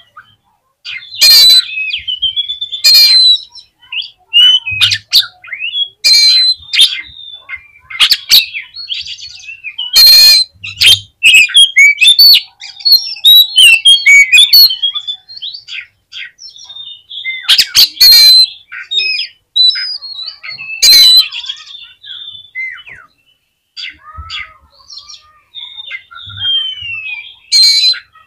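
Oriental magpie-robin (kacer) singing loudly in agitated, fast phrases: clear whistled notes and glides broken every few seconds by harsh, rasping churrs. This is the high-aggression kacer song played to rouse captive males.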